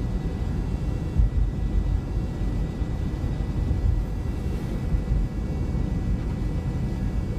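Steady low rumble of a car's engine and tyres heard inside the cabin while driving on a snowy highway.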